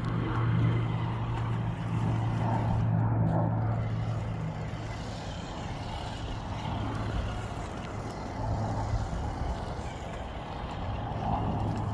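Radio-controlled crawler truck's electric motor and drivetrain running with a steady low hum. The hum weakens for a few seconds in the middle and comes back near the end.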